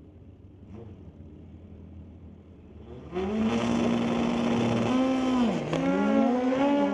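Drag-racing motorcycles, a Kawasaki and a Suzuki GSX-R, with their engines suddenly revving loudly about three seconds in. The engine note holds high, then dips and climbs again.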